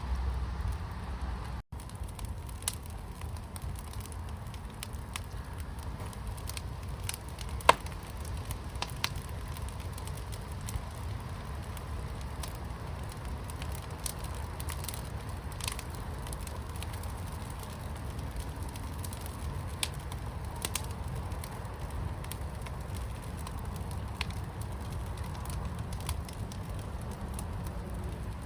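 Fire pit fire crackling, with scattered sharp pops over a steady low rumble; the loudest pop comes about eight seconds in.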